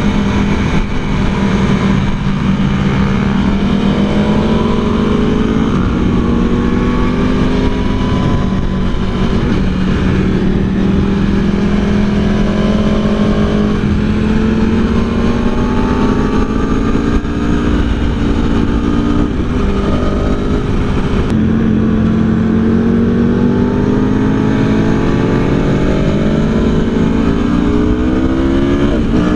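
Aprilia Tuono V4 1100's V4 engine pulling hard on track, its note climbing and dropping as the revs rise and fall, with a quick climb in pitch near the end. Wind rushes over the microphone throughout.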